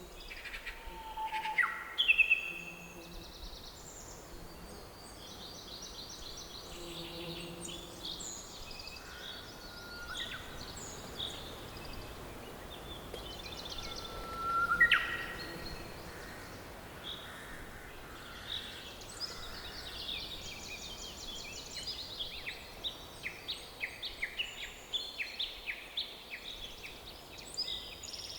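Several songbirds singing and calling over a faint steady background hiss of forest ambience. A few louder whistled calls stand out about two seconds in and again about halfway, with a rising whistle near the middle, and quick series of chirps fill the last third.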